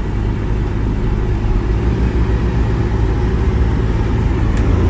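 Steady low rumble of a car driving, heard from inside the cabin, with a faint click near the end.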